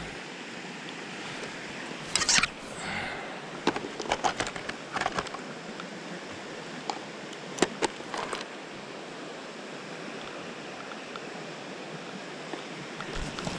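Mountain stream water rushing steadily, with a few short clicks and rustles from close handling of gear or footsteps on the bank, the loudest about two seconds in and again near the middle.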